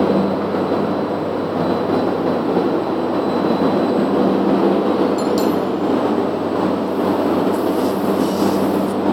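Corrugated plastic pipe extrusion line running: a steady mechanical clatter and hum. A brief metallic clink comes about five seconds in.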